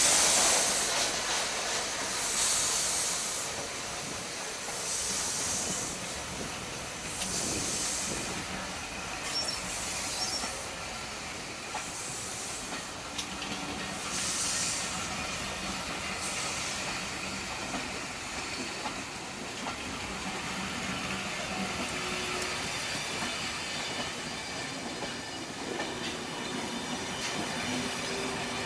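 Bulleid West Country class steam locomotive 34046 Braunton arriving slowly: bursts of steam hiss about every two and a half seconds, which fade out after about sixteen seconds, over the rumble of the train on the rails. A faint wheel squeal comes in near the end.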